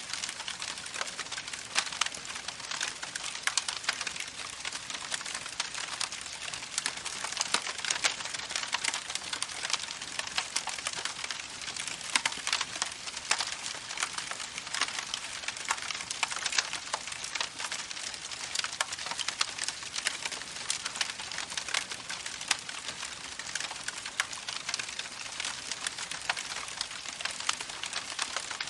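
Campfire crackling steadily, a dense stream of sharp pops and snaps over a soft hiss.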